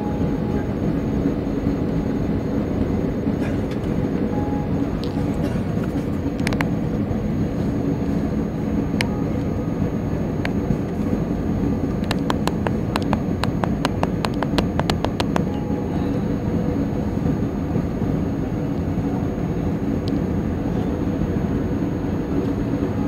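Airliner cabin noise during the approach: a steady, loud drone of jet engines and airflow. About halfway through comes a run of a dozen or so quick ticks lasting a few seconds.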